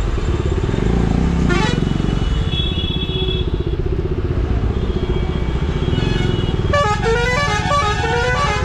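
KTM 250 Duke's single-cylinder engine running at low revs while creeping through traffic, with other vehicles' horns honking over it: a short blast about one and a half seconds in, and several overlapping horns from about seven seconds in.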